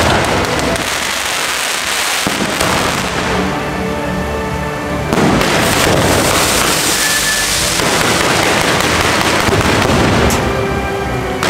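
Aerial fireworks display: a dense, continuous run of launches, crackling and bursts that gets louder about five seconds in.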